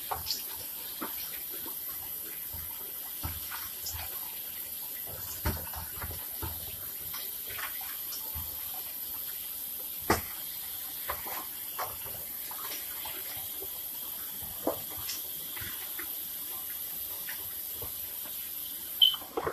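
Tap water running steadily into a kitchen sink, with scattered clinks and knocks of dishes being handled, the loudest about halfway through and a few near the end.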